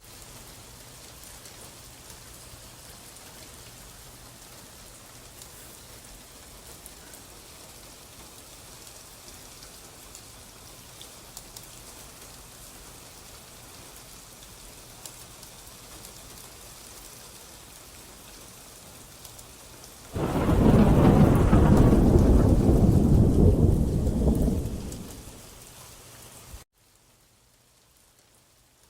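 Steady rain falling, then about twenty seconds in a loud rumble of thunder that starts suddenly, lasts about five seconds and fades. Near the end the sound cuts off abruptly to much fainter rain.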